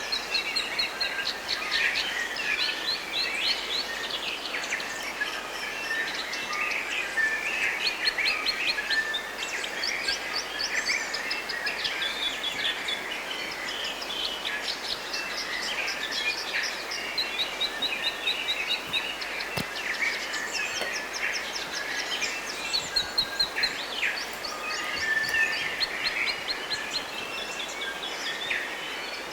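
Dense chorus of several songbirds, with rapid trills and chirps overlapping continuously over a faint steady hiss.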